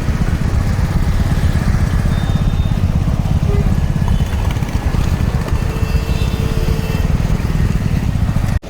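Motor vehicle running close by: a steady low rumble that cuts off abruptly near the end.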